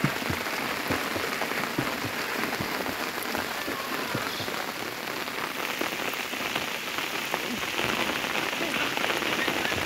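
Steady rainfall, a dense even hiss with many individual drops ticking on surfaces.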